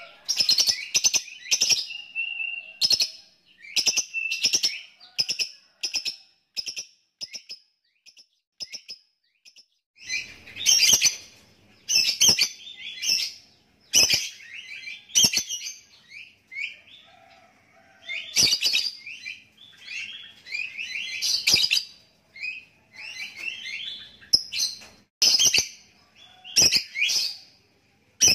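Lovebird chattering in bursts of rapid, clicking chirps, the 'ngetik' and 'ngekek' calls, each burst lasting a second or so with short pauses between, thinning out briefly before picking up again about ten seconds in.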